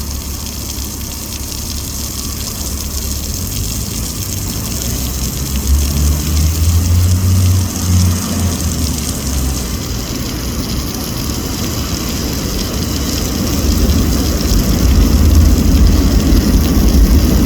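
City traffic rumble, a steady low drone of engines that swells twice as heavier vehicles pass, under a constant hiss.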